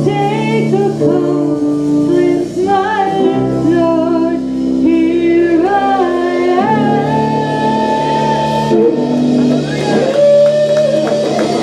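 Live band music: a singer holding and sliding between sung notes over guitar chords.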